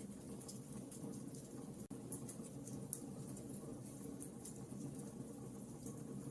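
Wood fire crackling: a steady low rumble of flames with scattered sharp pops and snaps, and a momentary dropout about two seconds in.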